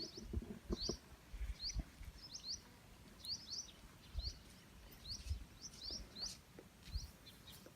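A small bird chirping over and over in short, quick rising chirps, about two a second and often in pairs, with a few faint low thumps in between.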